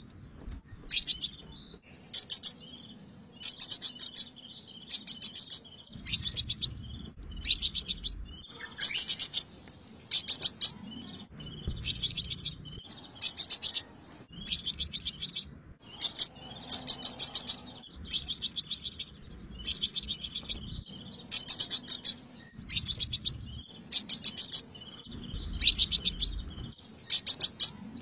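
Sunbird song: short bursts of rapid, high, thin chirping notes, repeated about once a second.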